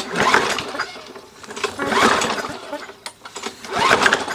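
Lawn mower's recoil starter pulled three times, the engine turning over with each pull but not catching.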